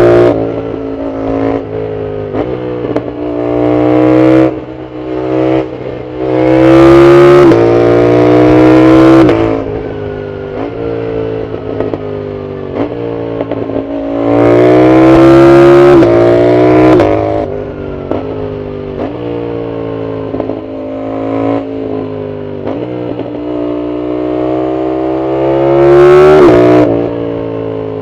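Yamaha MT-07's CP2 parallel-twin engine through a full aftermarket exhaust, accelerating hard several times. Each pull climbs in pitch and breaks at quick upshifts, with quieter part-throttle stretches between that carry short sharp cracks from the exhaust.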